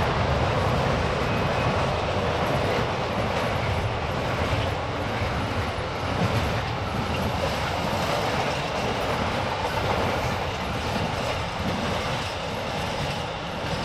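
Loaded container wagons of a long intermodal freight train rolling past, a steady rumble and run of wheel noise on the rails.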